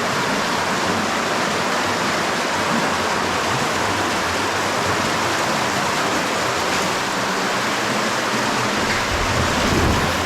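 Spring-fed cave stream running high, a steady, even rush of water close by, with a low rumble near the end.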